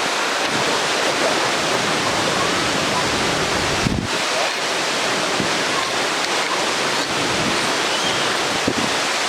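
Taughannock Falls, a 215-foot waterfall, pouring steadily into its plunge pool: an even, unbroken rush of falling water, with a brief low thump about four seconds in.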